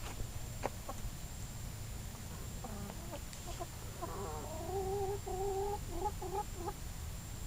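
Chickens clucking, with a run of calls in the middle that stretch into a few drawn-out notes, over a steady low hum.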